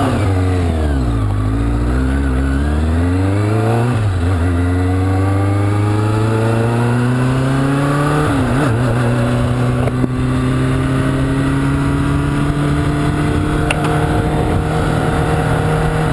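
Kawasaki Ninja sport bike engine accelerating through the gears, upshifting about 4 and 8 seconds in, then pulling steadily with its pitch slowly climbing, over wind rush.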